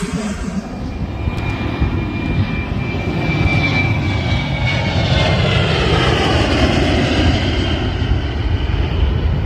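Airliner's engines passing close by, a loud steady rush of engine noise with a high whine that slowly falls in pitch as the aircraft goes past.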